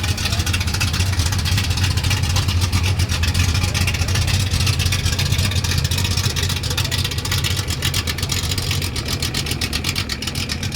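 Ford Mustang's engine idling with a loud, low exhaust rumble made of rapid, even firing pulses.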